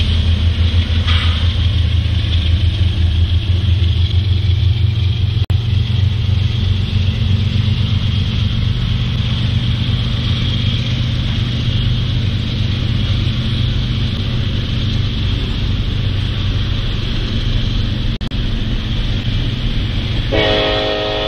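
Double-stack intermodal freight train rolling past: a steady low rumble of the cars' wheels on the rails, with a high hiss over it.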